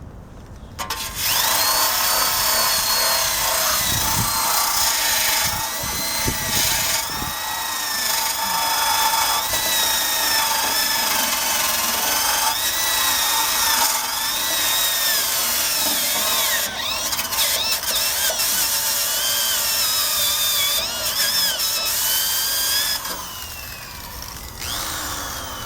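Corded electric drill spinning a wire brush against the steel frame of a 1965 Honda Cub, scrubbing off rust and old paint. It starts about a second in as a loud, continuous scraping whir with a whine that wavers in pitch as the brush is pressed and eased. It falls away near the end.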